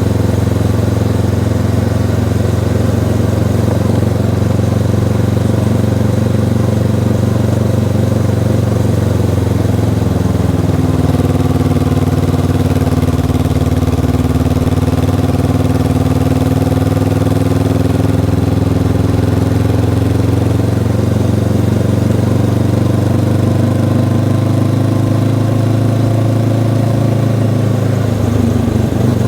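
Honda CB500X motorcycle's parallel-twin engine with its stock exhaust, running steadily under way. Its note changes pitch about ten seconds in and again briefly near the end.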